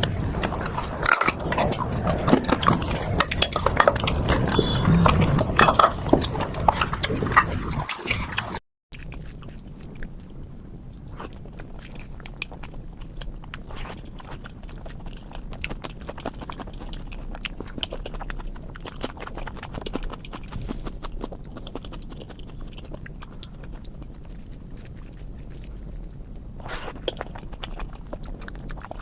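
Close-up eating sounds: wet chewing and mouth smacks. They drop out briefly about nine seconds in and go on more quietly.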